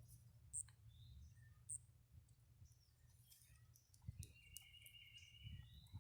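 Near silence with a low hum and a few faint scattered clicks. A thin, steady high tone lasts a little over a second near the end.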